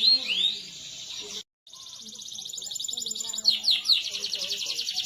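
Domestic canary singing: a few quick downward-sweeping notes, then after a brief drop to silence about a second and a half in, a long fast rolling trill broken by a couple of sweeping notes.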